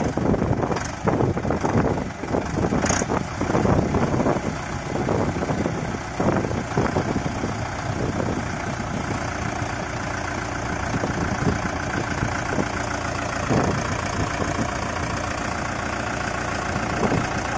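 Mahindra Yuvo tractor's diesel engine running, uneven and clattery for the first several seconds, then settling into a steady idle from about halfway through.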